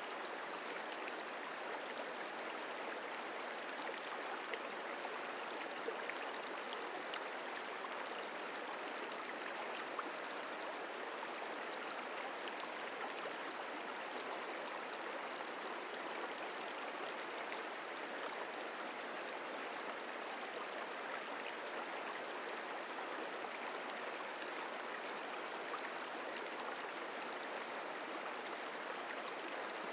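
The Merced River flowing: a steady, unbroken rush of running water.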